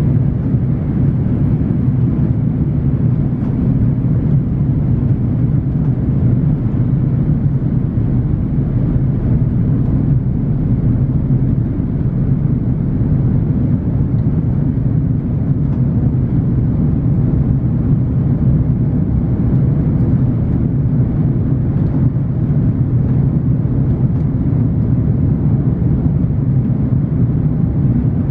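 Cabin noise inside an Airbus A330-900: a steady low rumble of the Rolls-Royce Trent 7000 engines and rushing air, holding level with no rise or fall.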